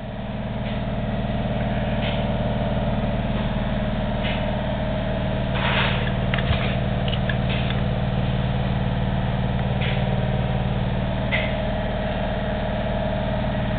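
Hougen HMD150 magnetic drill press motor spinning up over the first second, then running steadily with a hum. A few short scrapes or clicks come over it, the loudest about six seconds in.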